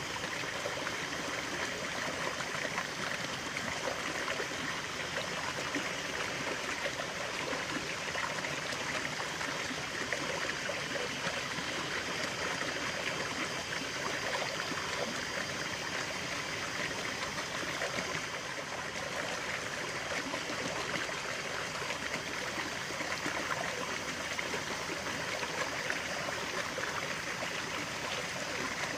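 Stream of water running and trickling steadily, an even rushing splash without pauses.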